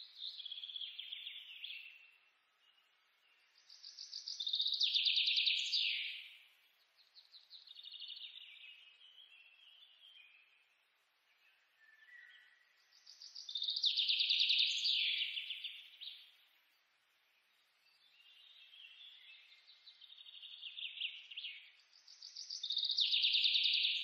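Bird singing: repeated trilled phrases a few seconds long, with pauses between them and the loudest phrases coming about every nine seconds.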